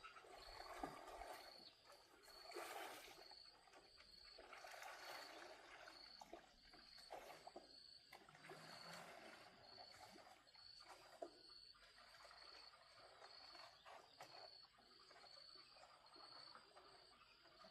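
Faint outdoor ambience: a small animal's high chirp repeating steadily about two to three times a second, over a soft background hiss.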